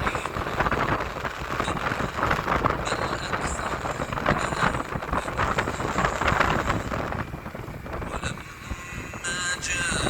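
Road vehicle on the move: a continuous rumble of engine and road noise, easing off about seven seconds in, with a steady pitched tone coming in near the end.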